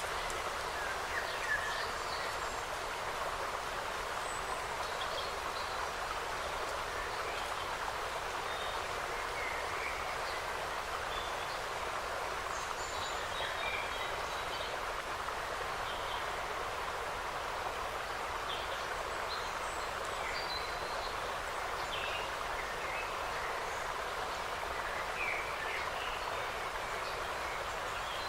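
Forest ambience: a steady, even rushing hiss, with small birds giving brief chirps here and there throughout.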